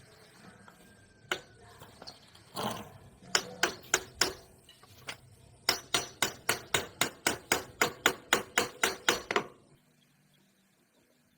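Hammer blows on metal: a few separate strikes, then a fast steady run of about four blows a second for nearly four seconds, each with a short metallic ring, stopping abruptly.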